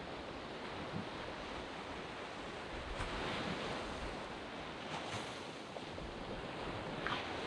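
Small sea waves breaking and washing up a sand beach, a steady wash of surf with a brighter splash about every two seconds.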